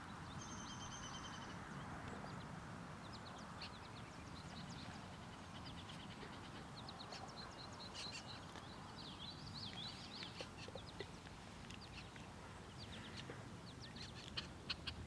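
Birds chirping and singing in many short, quick high notes over a steady background hiss, with one held whistled note early on and busier chirping in the middle.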